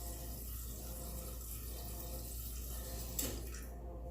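Filtered water running steadily from a tap into a pot being filled for boiling, shut off with a click a little before the end.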